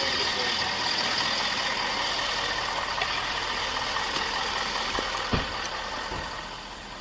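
Steady engine-like running noise with hiss, fading gradually in the last couple of seconds, with a few short low thumps about five to six seconds in.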